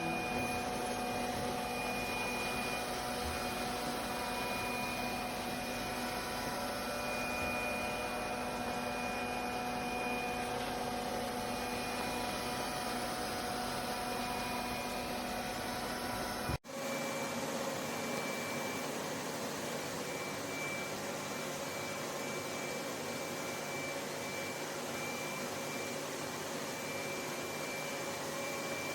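Lefant M1 robot vacuum running: a steady whir with a constant high whine. It breaks off for an instant about two-thirds of the way through and carries on with less low rumble.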